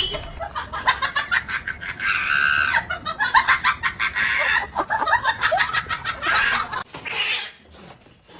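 Chickens clucking and squawking in a rapid run of short calls, which stop about seven seconds in after a brief noisy burst.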